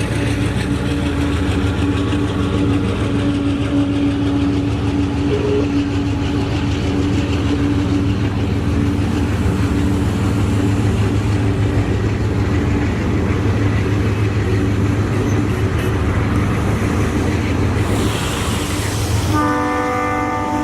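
Diesel locomotive, an ND5 (GE C36-7), running with a steady, loud engine drone. Near the end there is a brief hiss, then a multi-tone air horn sounds.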